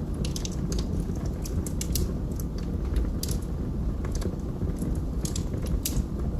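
Wood fire burning in a fireplace: logs crackling with many irregular sharp pops over a steady low rumble of flames.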